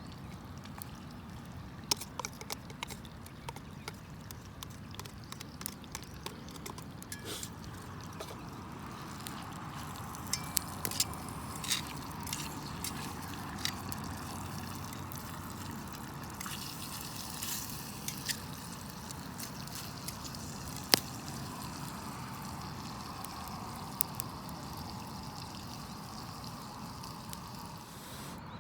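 Wood campfire crackling, with scattered sharp pops (one louder pop about 21 seconds in), over a steady watery bubbling hiss from food cooking on the fire.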